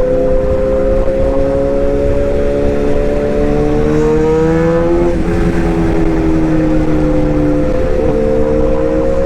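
Toy excavator's small electric motors and gears whining steadily. The pitch creeps slowly upward, then shifts about five seconds in, and one tone drops out near eight seconds.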